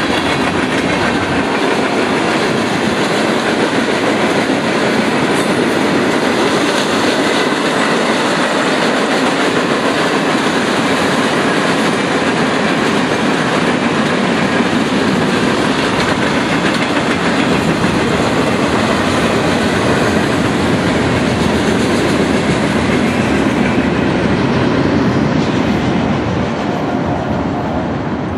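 Freight cars of a mixed freight train rolling past, steel wheels clattering over the rail joints. The noise eases off near the end as the last cars go by.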